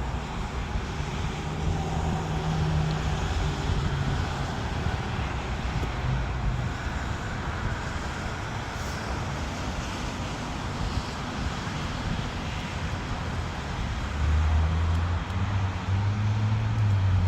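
Steady outdoor rumble of road traffic, with the low hum of a vehicle engine that grows louder in the last few seconds.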